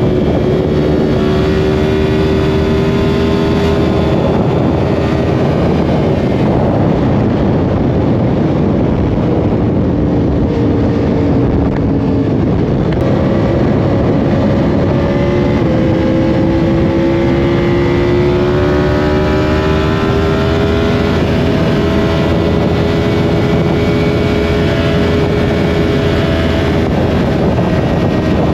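Yamaha R1's inline-four engine running at speed, its pitch sinking through the first half, stepping around the middle, then climbing steadily, with heavy wind rush on the microphone.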